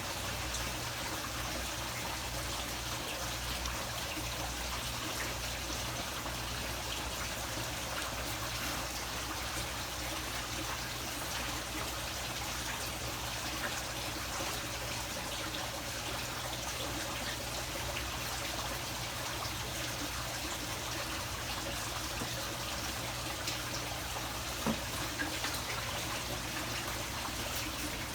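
Steady trickling of running water, with a couple of faint ticks near the end.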